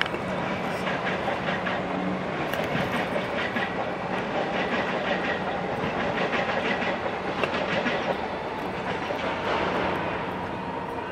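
Train running along the line, its wheels clicking over rail joints and points, with a steady hum underneath.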